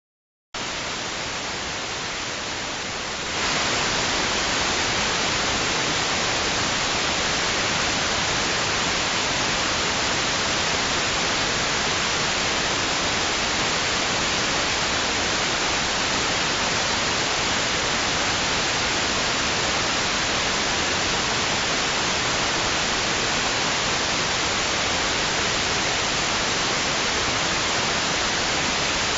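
Steady white-noise hiss, even across all pitches with no rise and fall of waves; it starts about half a second in and steps up louder and brighter about three seconds in.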